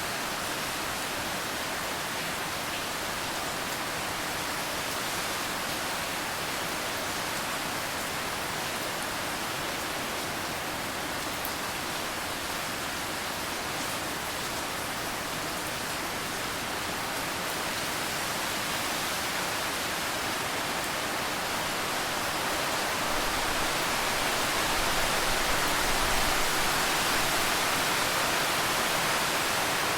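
Steady rain falling as an even hiss, growing somewhat heavier about three-quarters of the way in.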